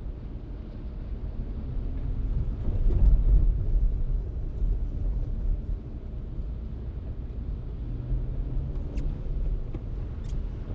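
Low rumble of a car driving through city streets, tyre and road noise with some wind on the microphone, swelling about three seconds in. Two faint ticks come near the end.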